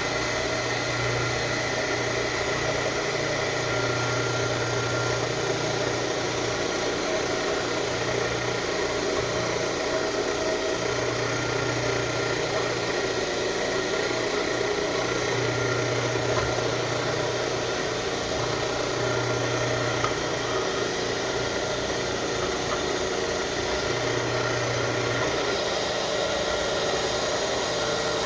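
Electric wire wheel buffer running steadily while its spinning wire wheel brushes paint and rust off a steel brake pedal, a continuous motor hum with a steady scratchy hiss.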